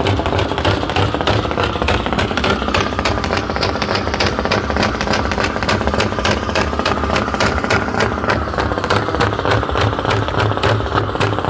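Truck engine running with a fast, even pulsing; its pitch climbs over a few seconds and then falls back.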